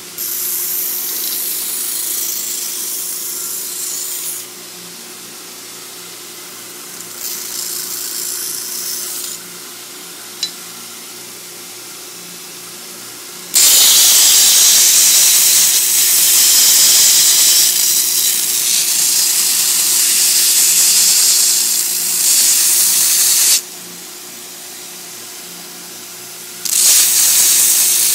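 Home-built 2x72 belt grinder, driven by a 3/4 horsepower bench grinder motor, running with a steady hum while a workpiece is pressed to the belt in passes: a harsh hiss in bursts of a few seconds, the longest about ten seconds from the middle on, with a single click about ten seconds in.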